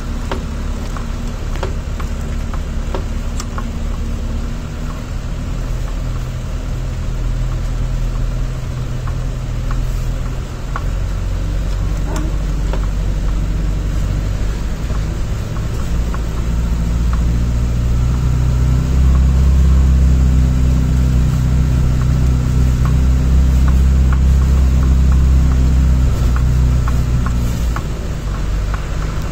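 Land Rover Defender's engine running under load as it drives through snow, heard from inside the cabin, with scattered short clicks. The engine drone grows louder from about halfway and eases off again near the end.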